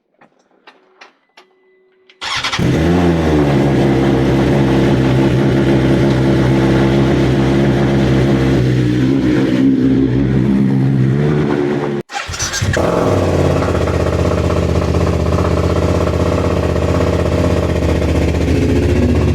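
A few faint clicks and a short tone, then about two seconds in a BMW motorcycle engine starts, flares, and settles into a steady idle. After an abrupt cut about twelve seconds in, a motorcycle engine starts again, flares, and settles to idle.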